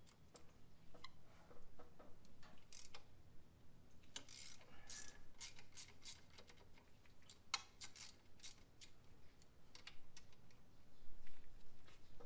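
Hand tools working on an engine during teardown: irregular sharp metallic clicks and clinks with a few short scrapes, bunched more thickly between about four and nine seconds in.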